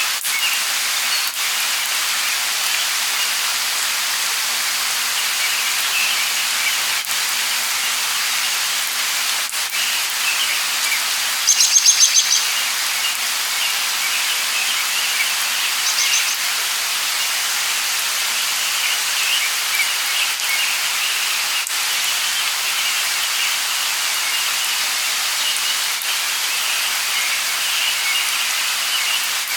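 Light rain falling, a steady hiss, with birds chirping throughout. Near the middle a bird gives a short, rapid trill, and a few seconds later a second, shorter one.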